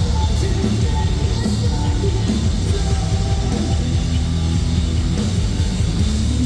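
Live metalcore band playing loud and steady: heavy distorted guitars, bass and drums.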